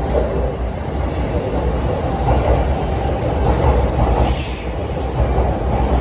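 Electric commuter train running on the rails: a steady low rumble, with a brief higher hiss or squeal about four seconds in.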